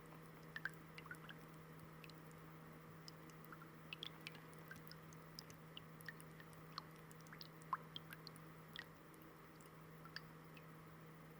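Shallow water fountain trickling faintly, with many small, irregular plinks of falling drops.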